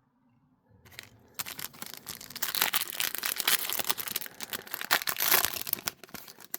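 A trading card pack's plastic wrapper being torn open and crinkled in the hands: a dense, crackly rustle that starts about a second in and stops just before the end.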